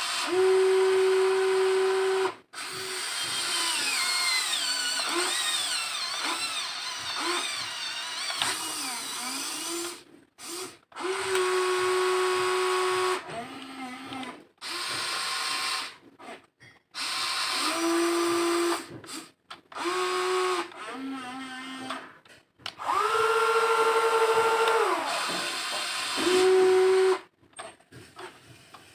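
Small electric motors of a WLtoys XK 16800 RC excavator whining in stop-start runs of one to three seconds, the pitch changing from run to run as different movements are driven.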